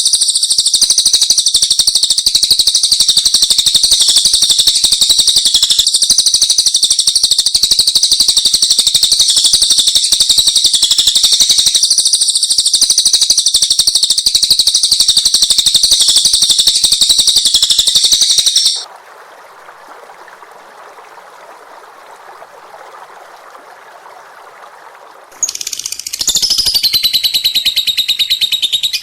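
Songbird song used as a training recording: a loud, very rapid, unbroken high-pitched trilling that cuts off suddenly about two-thirds of the way in. A quieter hiss follows for several seconds, then loud high birdsong starts again with a downward sweep near the end.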